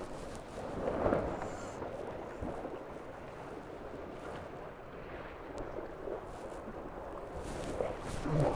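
Rush of water along a Tornado racing catamaran's hulls under sail, with wind on the microphone; it swells louder about a second in and again near the end.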